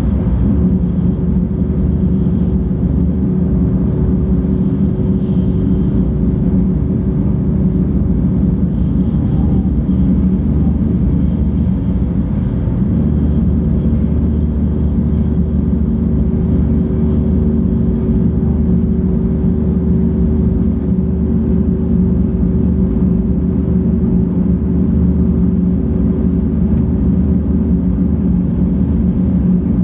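Cabin noise inside a 700 Series Shinkansen train running along the line: a steady low rumble of wheels, track and air, with a faint steady hum underneath and no change in level.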